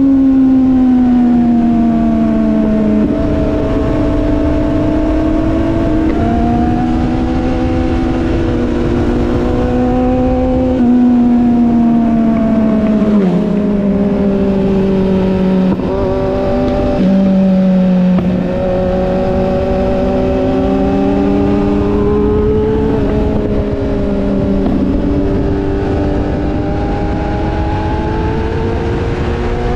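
Motorcycle engine running at road speed while being ridden. Its pitch rises and falls with the throttle, and drops suddenly several times as gears change.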